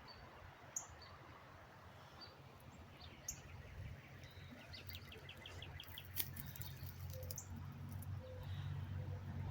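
Wild songbirds calling: short high chirps about once a second, two sharp downward-swept calls, and a quick trill of about eight notes midway. Under them is a faint low steady rumble that grows louder near the end.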